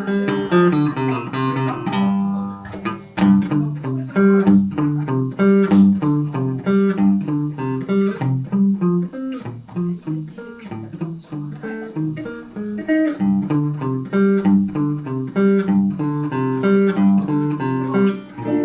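Solo electric guitar, a Van Zandt Telecaster played through a Roland JC-120 amp, picking an instrumental passage: low bass notes in a steady pattern under a run of higher melody notes.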